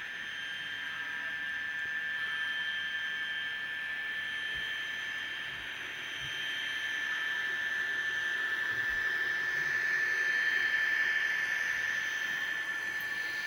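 N scale model locomotive running on track: a steady high-pitched motor whine over light rolling hiss, growing louder about eight seconds in and easing off near the end.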